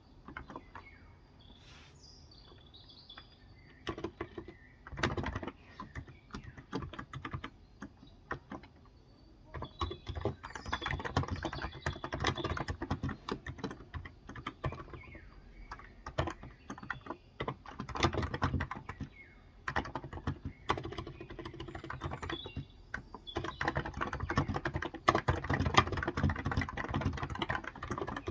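Typing on a Cox Endeavor electro-capacitive (Topre-style) tenkeyless keyboard with light 35 g switches: runs of quick keystrokes in bursts, sparse at first and then dense. Birds chirp faintly in the background near the start.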